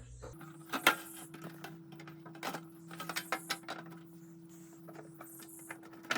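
Plastic housing parts of a mini ice maker being handled and pushed together, giving irregular clicks and taps of plastic on plastic. A faint steady hum runs underneath.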